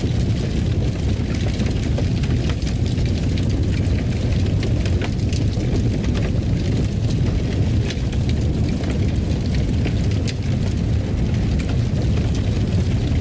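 Fire burning in a fireplace: a steady low rumble of flames with frequent small, sharp crackles and pops scattered throughout.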